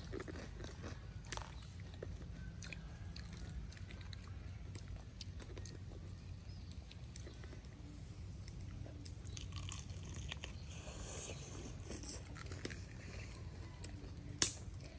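Close-up chewing and crunching of crispy fried chicken drumsticks, with scattered small crackles and one sharper click near the end.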